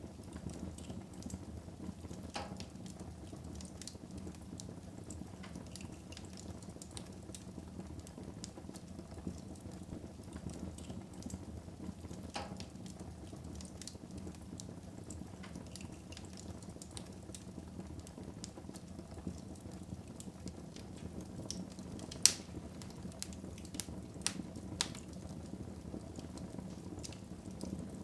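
Wood fire burning in a fireplace: a steady low rush of flame with scattered crackles and snaps, and one sharp, louder pop about three-quarters of the way through.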